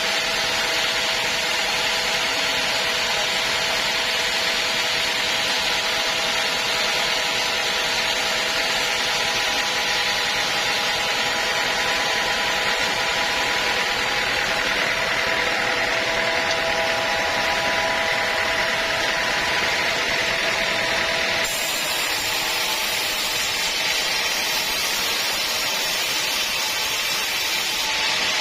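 Sawmill saw running steadily through a teak log, a continuous cutting noise with a steady whine. The sound changes abruptly about three quarters of the way through.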